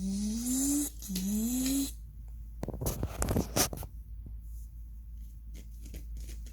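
A voice makes two rising hummed sound effects during toy play. About a second after they stop there is a short burst of clattering clicks and rustles, followed by a few scattered small clicks from toys being handled.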